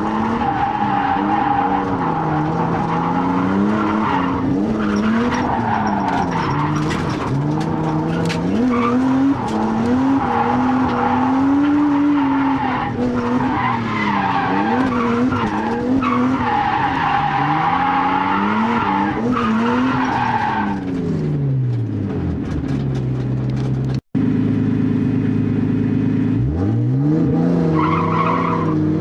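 Nissan R32 Skyline's RB20DET turbocharged straight-six revving up and down hard while drifting, with tyres squealing in long stretches. Late on, the engine drops to a steady idle, the sound cuts out for an instant, and then the engine revs up again with more tyre squeal near the end. The owner calls this a boost-up engine with single-digit compression.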